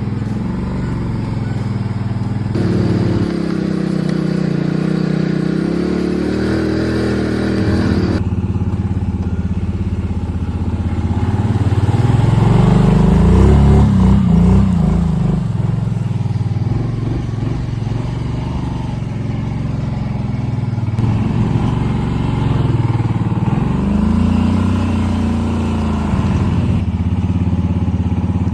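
Small engine of an off-road vehicle running as it is ridden. Its pitch rises and falls twice, about halfway through and again near the end.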